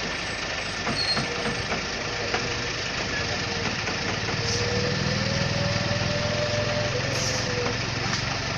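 Concrete mixer truck's diesel engine running steadily, with a thin whine that rises slightly in pitch about halfway through as the engine gets a little louder.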